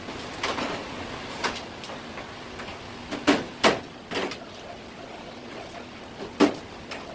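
A knife and fish knocking on a cutting board: about six sharp knocks spaced irregularly, the loudest a little after three seconds in and again near the end.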